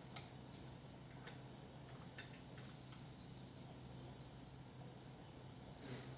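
Faint scattered clicks and light taps, a few seconds apart, over a steady thin high whine and a low hum.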